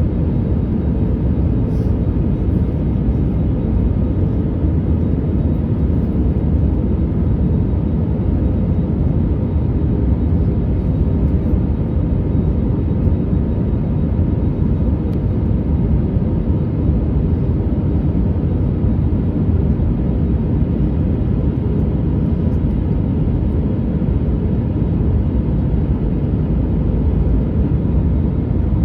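Steady low cabin rumble of an Airbus A321neo, the noise of its engines and the airflow heard from a window seat, with a faint steady hum over it and no change in level.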